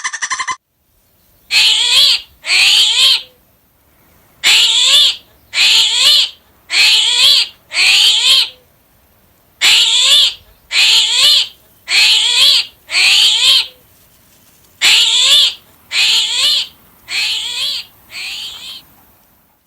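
An animal calling over and over: about fourteen short, high, wavering calls, each under a second, in a run of two and then three runs of four.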